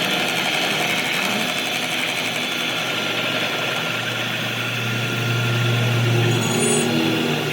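A machine running steadily, with a low hum that grows stronger for about two seconds in the middle.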